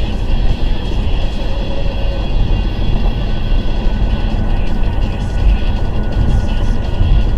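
Steady, loud low rumble of a vehicle in motion.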